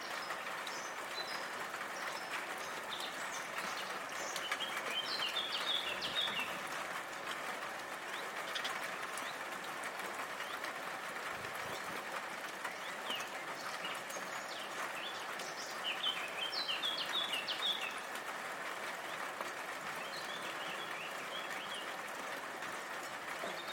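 Steady hiss of falling rain, with birds chirping in short quick runs a few times, loudest around a third of the way in and again past the middle.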